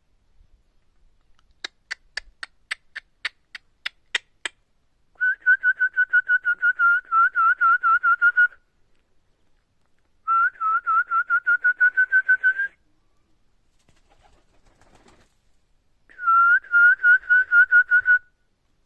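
About ten sharp clicks in a steady row, then three bursts of rapid, warbling whistled notes, about five notes a second, each burst lasting a couple of seconds.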